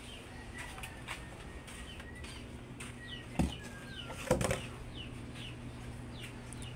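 Birds chirping in short, falling notes, over and over, with two sharp thumps about three and a half and four and a half seconds in and a steady low hum beneath.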